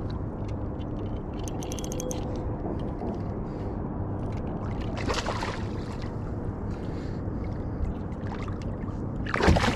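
Steady low rumble of water and wind around a kayak. A quick run of clicks comes about a second and a half in, a short splash about five seconds in, and a louder splash near the end.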